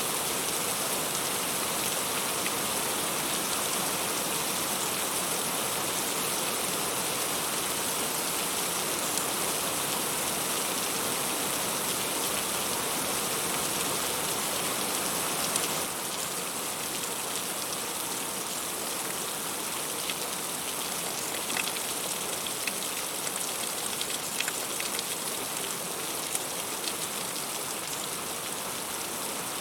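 Heavy rain falling steadily, a dense hiss of drops striking fruit and leaves. About halfway through it becomes slightly quieter, and separate drop ticks stand out more clearly.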